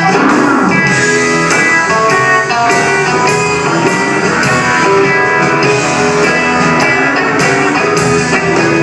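Country-rock band playing live, an instrumental break led by guitar over a steady drum beat, with no singing.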